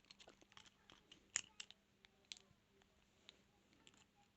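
Faint, irregular small metallic clicks and ticks of a rake pick and tension wrench working the pins of a clear practice padlock. The sharpest click comes about a second and a half in.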